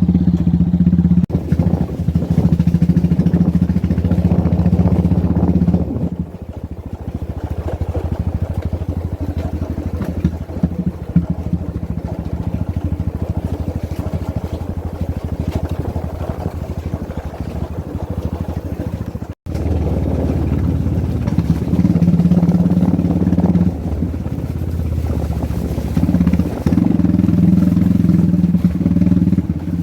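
Motorcycle engine running while the bike is ridden, louder and working harder for the first several seconds and again in the last third, quieter in between. The sound drops out for an instant about two-thirds of the way through.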